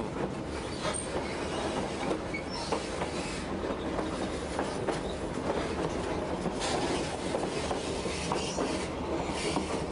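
White Pass & Yukon narrow-gauge passenger car rolling along the track, heard from its open end platform. It gives a steady rumble of wheels on rail with rattling and clicking, and a few short, faint, high wheel squeaks.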